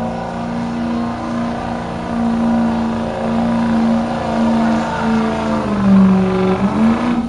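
Farm tractor engine running hard at a steady pitch while pulling the weight sled, its pitch dipping about six seconds in and picking back up before cutting off suddenly.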